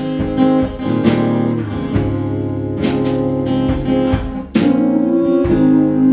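Music: an acoustic guitar strumming chords in an instrumental break of a song, with no singing.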